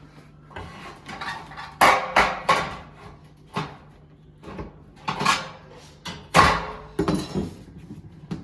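Irregular knocks and bangs of hand tools on wood during demolition of wall framing, loudest about two seconds in and again just past six seconds.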